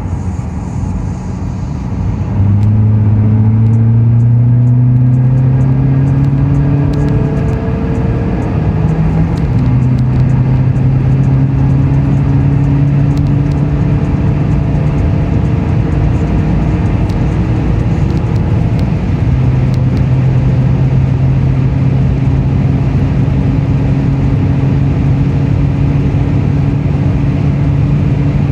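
Fiat Stilo 1.9 JTDm 16v four-cylinder common-rail turbodiesel, uprated with a Garrett GTB2056V variable-geometry turbo, accelerating hard at full throttle. The engine note jumps up about two seconds in and the revs climb until a gear change near nine seconds in. It then pulls on in a higher gear, with the revs rising slowly.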